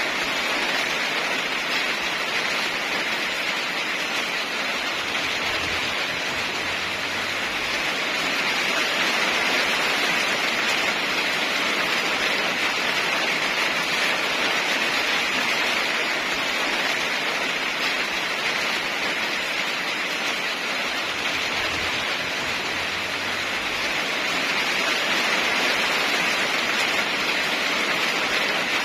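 Steady heavy rain: a dense, even hiss that swells and eases gently a few times.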